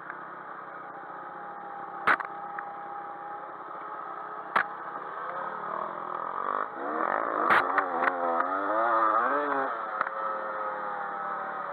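Dirt bike engines running and revving up and down, the pitch rising and falling repeatedly in the second half. A few sharp knocks sound about 2, 4.5 and 7.5 seconds in.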